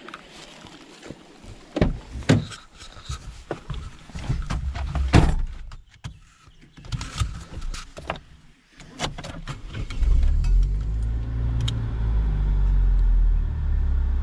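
Scattered knocks and clatter, then about ten seconds in the 1996 Holden Barina Swing hatchback's engine starts a steady low running rumble, heard from inside the cabin.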